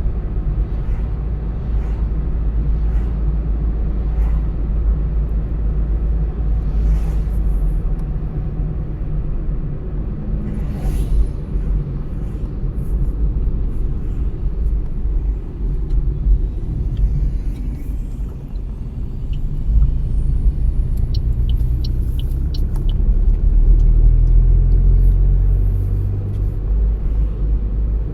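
A car driving on the road: a steady low rumble of engine and tyres, growing a little louder near the end, with a few faint ticks partway through.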